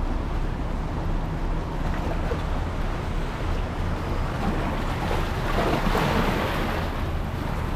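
Water and wind noise on the water from a fishing kayak, with a steady low drone underneath. A swell of rushing, splashing noise builds and fades about five to seven seconds in.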